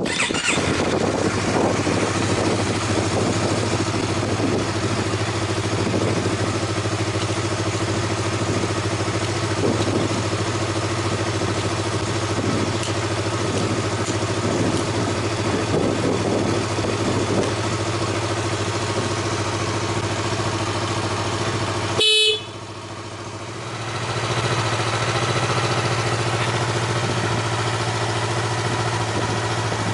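A Yamaha MT-25's parallel-twin engine starts and idles steadily through an aftermarket Yoshimura exhaust. About two-thirds of the way in, a short horn beep sounds, after which the sound drops for a couple of seconds before coming back.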